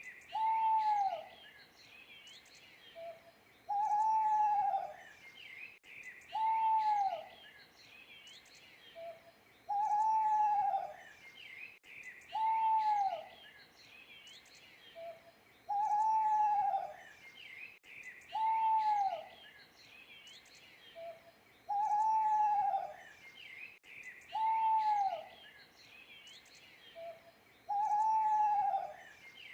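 An owl hooting: single short hoots that bend down in pitch, about every three seconds, with small birds chirping and twittering behind it.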